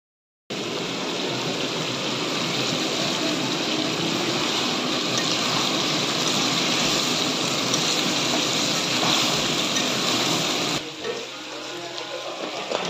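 Chicken curry in masala sizzling in a steel kadai over a gas burner as it is stirred, a steady dense hiss. About eleven seconds in it drops abruptly to a quieter sizzle.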